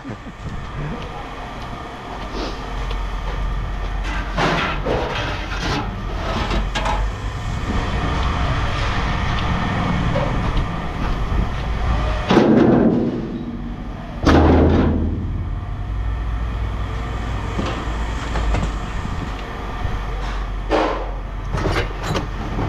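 Scrap yard machinery running with a steady low rumble, over which pieces of scrap metal clank and bang several times, two loud bangs coming close together about halfway through.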